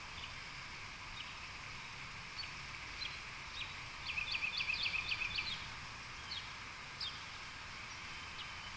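Songbird chirping: a quick run of about eight chirps about four seconds in, with single chirps scattered before and after, over a steady outdoor hiss.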